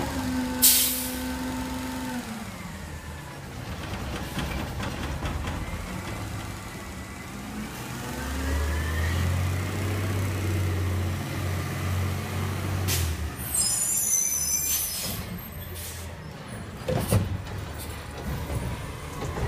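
Garbage truck at work: a short air-brake hiss right at the start, its engine revving and then dropping back about two seconds in, a deeper engine run for several seconds in the middle, then clattering and a sharp knock near the end.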